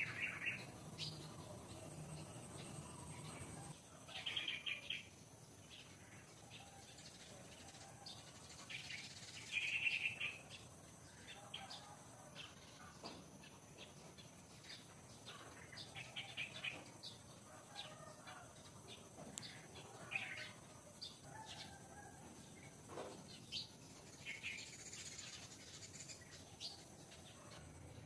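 Small birds chirping in short bursts of rapid high chirps, about six times, the loudest about ten seconds in, with faint scattered clicks between them.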